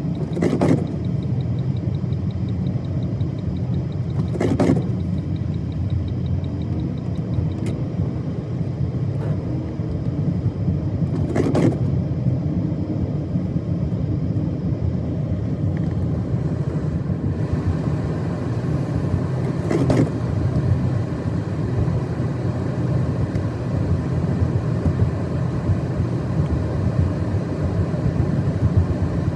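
Car driving on a snow-covered road: a steady low rumble of engine and tyres. Four brief sharper sounds are spread through it.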